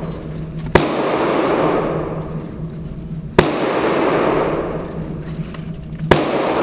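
Three single handgun shots about two and a half seconds apart, each a sharp crack followed by a long echo that dies away over a second or two.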